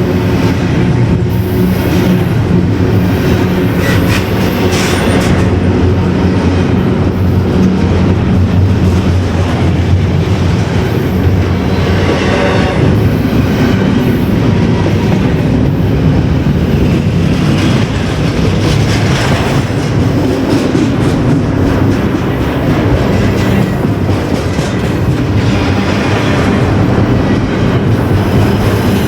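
A train rolling past close by, with a loud, steady rumble of wheels on the rails and a few brief high wheel squeals.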